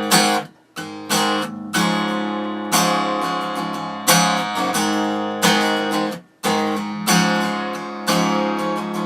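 Acoustic guitar strummed in an up-tempo rhythm as the song's instrumental intro, full chords ringing between sharp strokes. Twice the strings are briefly muted to a near stop, once about a second in and again about six seconds in.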